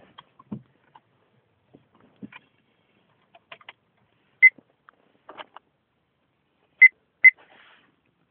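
Three short, high electronic beeps, the last two close together, among light clicks and handling knocks.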